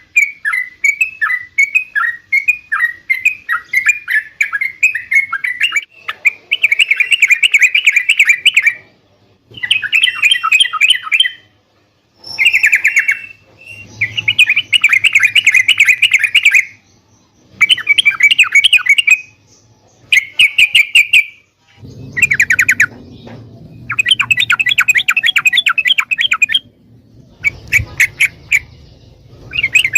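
Yellow-vented bulbul (trucukan) singing. A run of short falling chirps gives way to a series of rapid chattering bursts, each a second or more long, with short pauses between.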